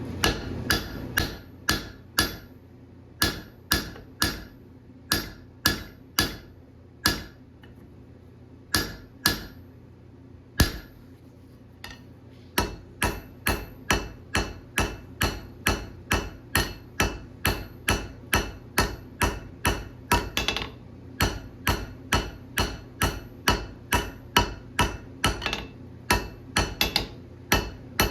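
Forging hammer striking a 1-inch round bar of tough alloy steel on an anvil, each blow ringing. The blows are irregular with short pauses at first, then settle into a steady rhythm of about two a second from about halfway.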